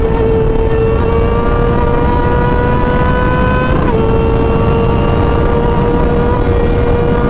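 A vehicle engine held at high, steady revs over a heavy rumble, its pitch dipping briefly about four seconds in.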